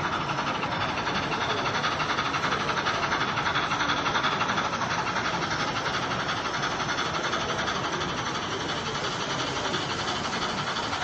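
Model trains running on a layout: a steady rolling noise of wheels on track with a fine rapid clatter.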